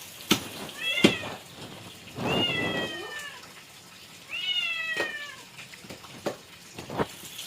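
A cat meowing three times, each drawn-out call falling in pitch, with a few sharp knocks in between.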